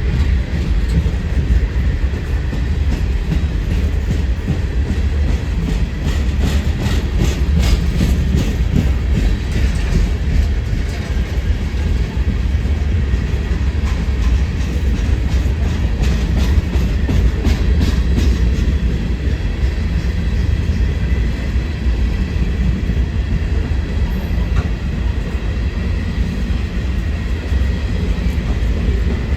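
Train rolling past, its wheels clicking over rail joints, thickest in the first half. Strong wind buffets the microphone throughout.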